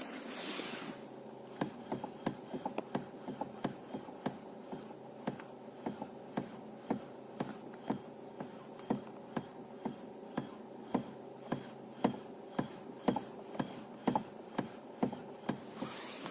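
Knocking in a car's steering as the steering wheel is rocked from side to side: short knocks about twice a second, some stronger and some weaker, over a steady low hum.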